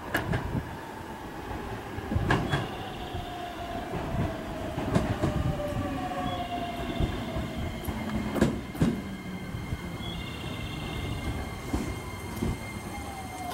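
A JR West 287 series electric limited express train pulls slowly into the platform. Its motor whine falls in pitch as it slows, with a rolling rumble and scattered knocks of wheels over rail joints. A high brake squeal comes in during the second half as it comes to a stop.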